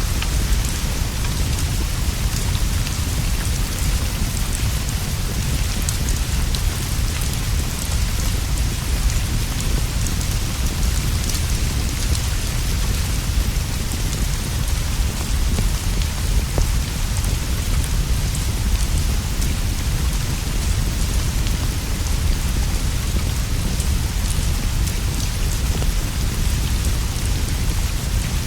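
Steady rainfall, an even hiss of rain on leaves and roof with faint scattered drip ticks. A deep continuous rumble runs underneath.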